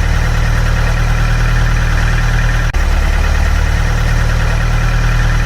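A vehicle engine running steadily at a low, even pitch, briefly broken about two and a half seconds in.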